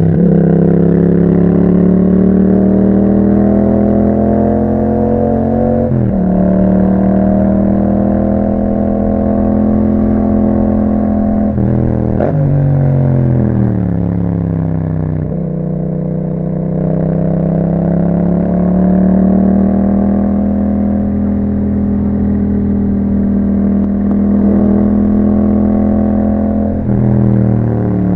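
2021 Yamaha MT-07's 689 cc parallel-twin engine running through an Akrapovic exhaust under way. The engine note climbs and then drops sharply about six, twelve and fifteen seconds in and again near the end, as at gear changes, with a steadier stretch in between.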